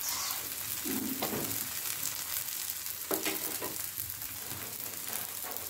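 Garlic paratha frying in ghee on a nonstick tawa over low heat: a steady, soft sizzle.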